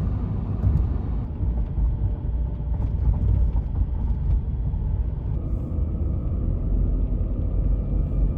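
Steady low rumble of a car being driven, road and engine noise. A faint steady whine joins in about five seconds in.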